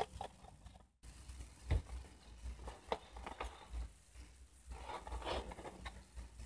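Toy packaging box being handled: scattered light taps and clicks, with a brief rustle and scrape of the box about five seconds in.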